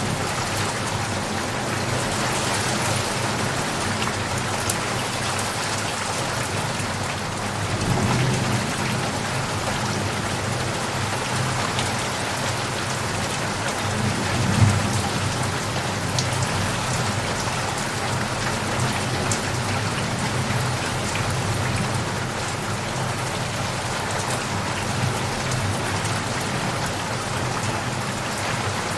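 Steady heavy rain falling, with low rolls of distant thunder about 8 seconds in and again around halfway through; the second roll is the louder.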